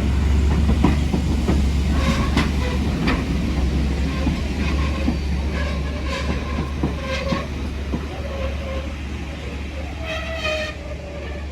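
Steam-hauled passenger train rolling past: a low rumble with wheels clicking over the rail joints, a ringing tone from the wheels coming and going from about five seconds in, and a higher tone with overtones near the end, all fading as the train moves away.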